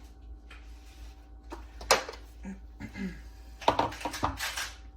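A few sharp knocks and clatters of hard objects being handled: one about two seconds in and two close together near the end, with brief faint voice sounds between them.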